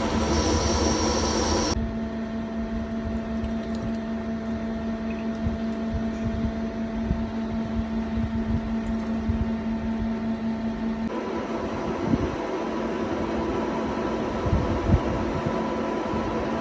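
CNC lathe running: a steady machine hum with a steady tone over it. The sound changes abruptly about two seconds in, and again about two-thirds of the way through, when the steady tone drops away.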